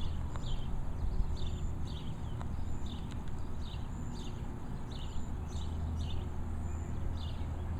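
A bird chirping over and over in short, slightly falling notes, about one or two a second, over a steady low rumble.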